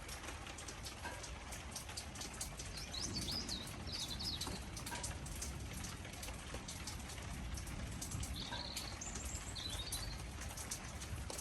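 Birds chirping in short phrases, two bouts a few seconds apart, over rain pattering with many small drip clicks and a steady low background rumble.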